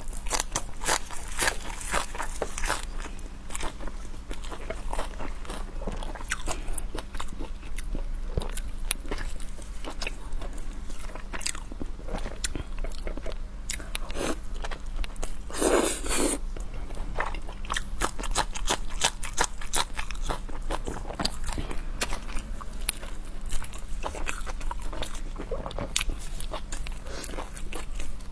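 Close-miked eating: crunchy bites and chewing, a rapid run of crisp clicks with a louder, longer crunch about halfway through.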